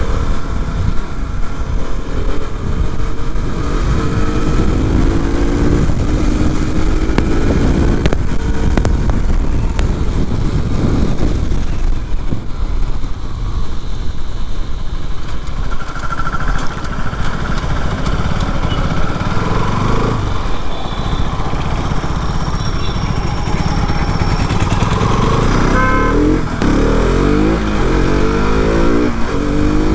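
KTM RC 200's single-cylinder engine running under way, revving up with repeated rising pitch sweeps near the start and again near the end, over a steady low rumble.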